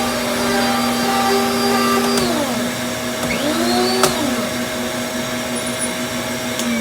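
Old Hoover vacuum cleaner running with its power head. One of its tones sags and recovers in the middle, a few sharp clicks sound, and the motor starts to wind down near the end. The power head needs a new belt: with the suction it clamps to the carpet and the beater bar stalls.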